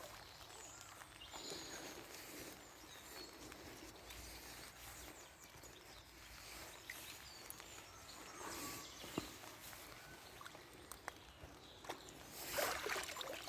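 Faint outdoor background with scattered short high chirps and a few small sharp clicks.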